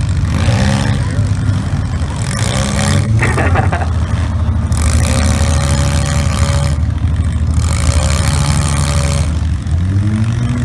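Several demolition derby cars' engines running and revving at once, their pitch rising and falling as the drivers push into each other.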